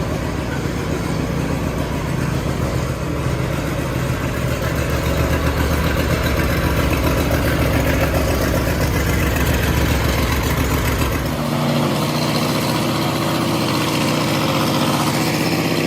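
Zero-turn riding mower's engine running steadily. About eleven seconds in the note changes: the deep low hum drops away and a higher, even engine tone carries on.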